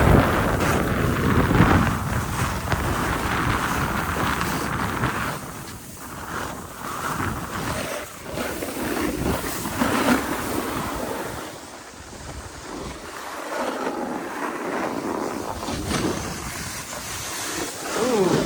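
Wind buffeting the microphone, with snowboard edges hissing and scraping over snow during a downhill run. The noise surges and dips with the riding.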